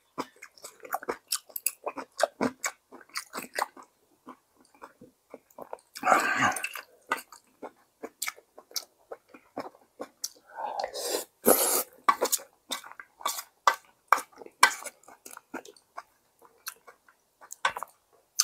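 Close-miked chewing and smacking mouth sounds of a person eating, with many short clicks and two longer noisy stretches about six and eleven seconds in.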